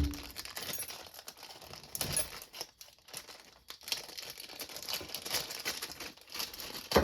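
Packaging crinkling and rustling as a new cordless impact driver's parts are unpacked from the box, with scattered small clicks and a louder rustle about two seconds in.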